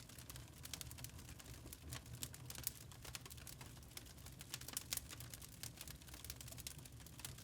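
Wood fire crackling in a fireplace: irregular small snaps and pops over a low steady rumble, with a few louder pops about two and a half and five seconds in.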